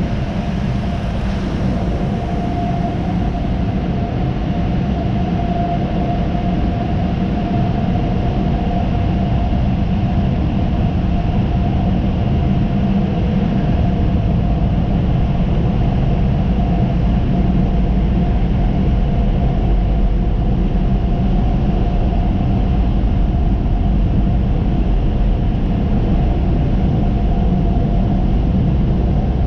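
Steady low rumble of a car on the move, with a faint steady hum above it, building slightly in loudness.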